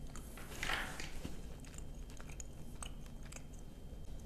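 Close mouth sounds of someone chewing a tough, rubbery strawberry candy stick: faint wet clicks and smacks, with a soft breathy rush a little over half a second in.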